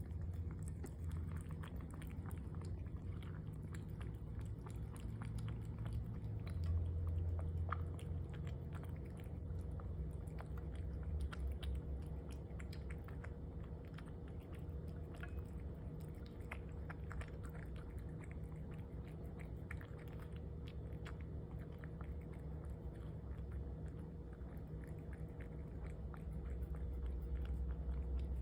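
A cat chewing, with many small irregular crunching clicks over a steady low hum.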